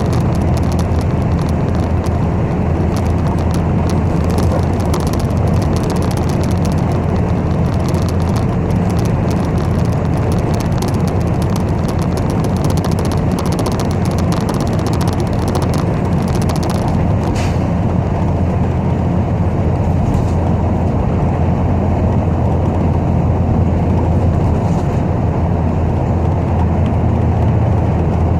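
Steady low engine and road rumble heard from inside a moving city bus, with faint light rattling through the first half.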